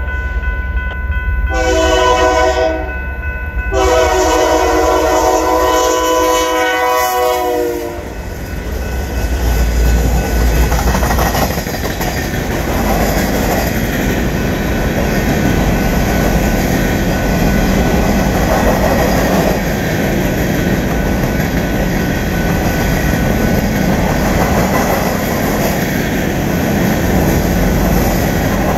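Freight locomotives in Santa Fe warbonnet paint sounding their horn: a long blast, a short one, then a final long blast that stops about eight seconds in. After that the train rolls past, a long string of covered hopper cars rumbling and rattling on the rails.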